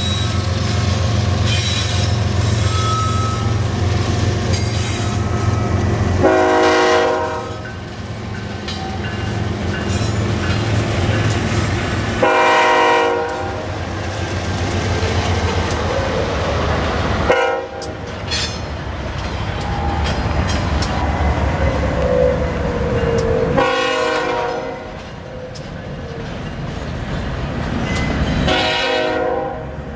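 BNSF freight train passing close by: the diesel locomotives' engines rumble steadily, and the horn sounds five blasts about five to six seconds apart. Between the blasts there is a wavering wheel squeal on the curve as the double-stack container cars roll by.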